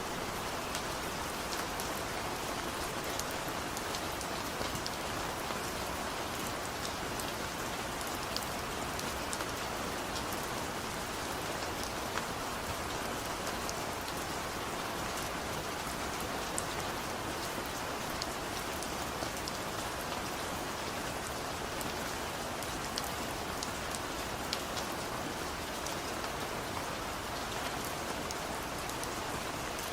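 Steady rain falling: a constant even hiss with scattered sharp drop ticks on top.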